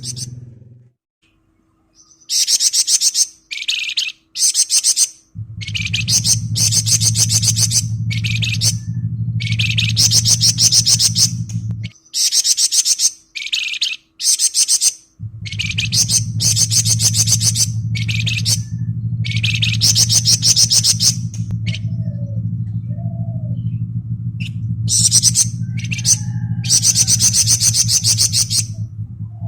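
Flamboyan songbird singing in a rapid 'ngebren' style: repeated high-pitched phrases of very fast, buzzy trilling, each a second or so long with short gaps. A low steady hum sits underneath, dropping out for a few seconds near the middle.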